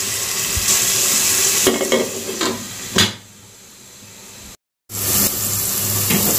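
Vegetables sizzling in hot oil in a nonstick pot, with a few scraping spatula strokes. About three seconds in the sizzle falls to a much quieter hiss with the lid on. After a brief break the loud, open sizzle resumes.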